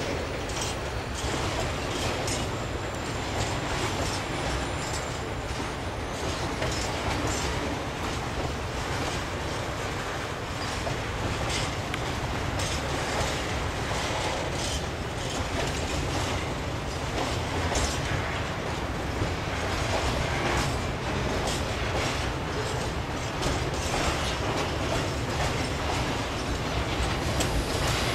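A freight train of tank wagons rolling past: a steady rumble of steel wheels on the rails, with frequent clicks as the wheels cross rail joints.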